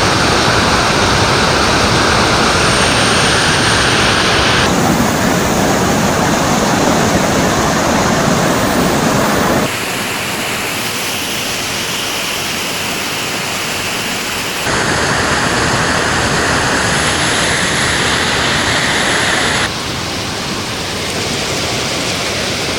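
Steady rushing noise of fast-flowing floodwater, loud and unbroken, its tone and level changing abruptly about every five seconds.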